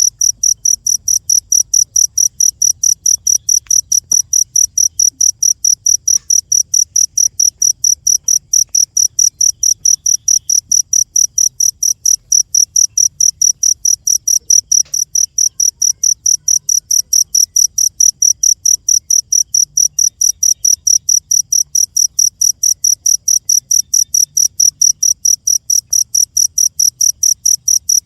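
Cricket chirping steadily, a high-pitched chirp repeated about four times a second without a break.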